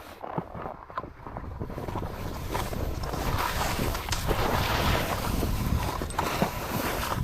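Skis sliding and hissing through snow with wind buffeting the microphone, building up about two seconds in as the skier picks up speed, with a few scrapes and knocks along the way.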